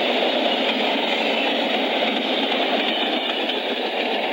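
Frisco (St. Louis–San Francisco Railway) freight cars carrying truck trailers on flatcars rolling past, their wheels on the rails making a steady rolling noise.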